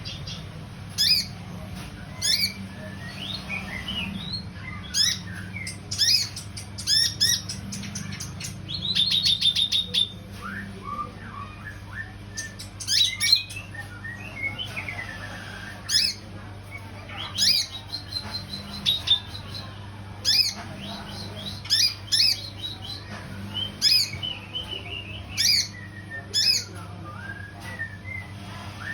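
Kinoi bird singing: a string of sharp, high chirps roughly once a second, mixed with short rattling trills and notes that sweep down in pitch, over a steady low hum.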